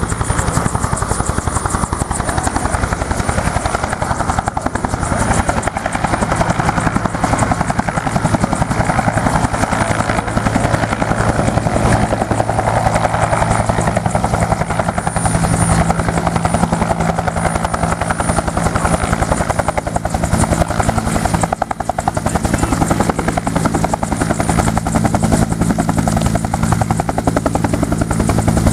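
Vietnam-era U.S. Army Bell helicopter running close by, its two-bladed main rotor giving a fast, steady chop. A low steady hum grows stronger from about halfway through.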